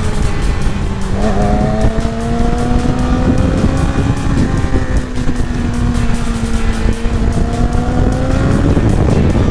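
Motorcycle engine running at a steady cruise, its pitch rising slightly about a second in and drifting gently after that, over heavy wind rush on the microphone.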